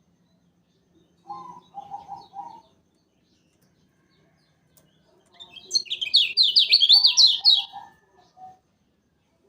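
Kecial kuning songbird singing: a short lower chattering phrase, then about halfway through a loud, fast run of sharp downward-sliding whistled notes, about five a second, ending in a few lower notes.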